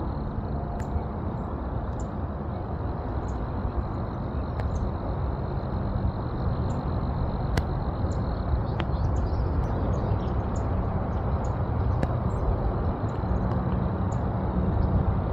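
Steady low rumble of outdoor ambience, with short high bird chirps about once a second and a faint steady high whine.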